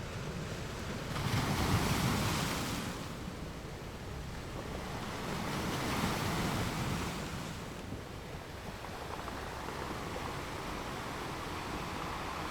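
Gentle ocean waves breaking on a beach: a wash of surf that swells and falls back twice, once about a second in and again around the middle.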